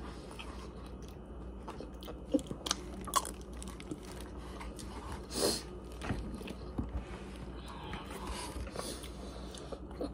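Chewing of a mouthful of Chinese takeout, with a few light clicks of a metal fork picking at the food in its tray.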